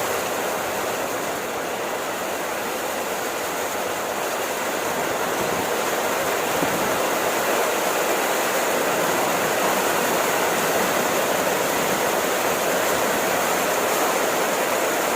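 Steady rain falling, a dense, even hiss of drops with no separate patters standing out.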